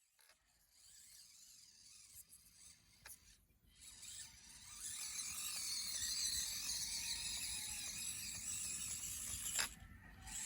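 Small electric motor and gears of a radio-controlled truck whirring, growing louder about five seconds in, with a few sharp clicks.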